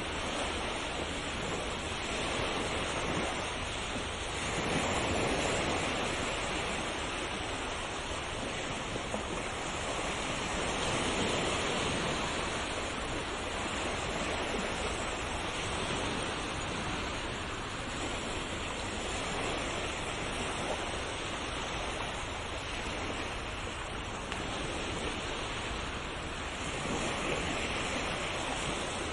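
Ocean waves washing onto a shore in a continuous rush of surf, swelling and easing every several seconds.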